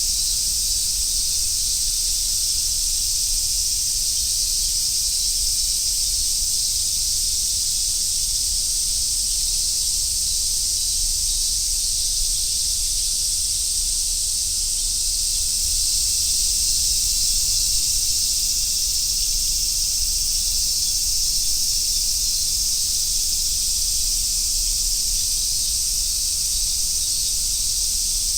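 Dense chorus of summer cicadas, a steady high hiss with no pauses, over a low steady rumble.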